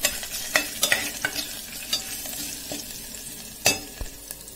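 Ginger-garlic paste and cloves sizzling in hot oil in an aluminium pot, stirred with a steel spoon that scrapes and knocks against the pot several times, the loudest knock near the end.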